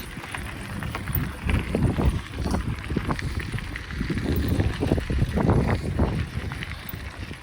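Wind buffeting the microphone during a bicycle ride, a low uneven rumble with irregular knocks and rattles from the moving bike.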